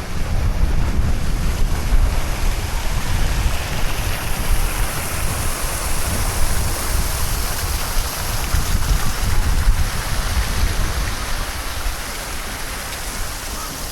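Wind buffeting the camera microphone on a moving bicycle: a heavy, fluttering rumble under a steady rushing hiss.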